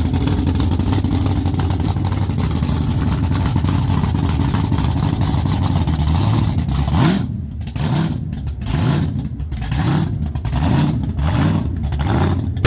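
Car engine running with a steady low rumble, then revved in a series of quick blips over the last five or six seconds.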